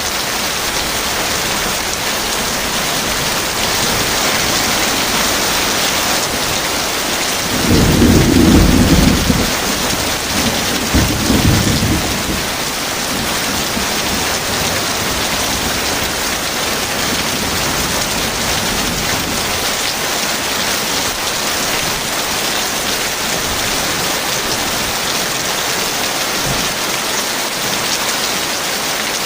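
Heavy rain falling in a steady hiss, with a thunderclap rumbling low and loud about eight seconds in and a second, shorter rumble a few seconds later.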